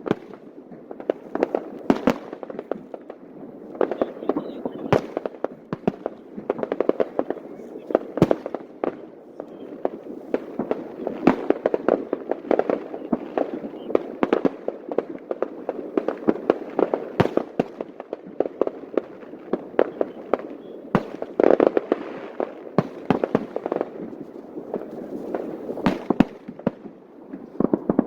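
Fireworks display in full swing: a dense, irregular run of sharp bangs and pops from bursting aerial shells, several a second at times, with no pause. Crowd voices carry underneath.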